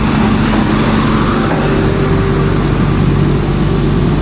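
A motor vehicle engine running steadily, its note stepping up to a higher pitch about a second and a half in.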